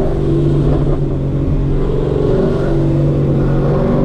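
Supercharged (ProCharger) Corvette LS V8 engine running at a steady speed, an even low drone holding nearly the same pitch throughout.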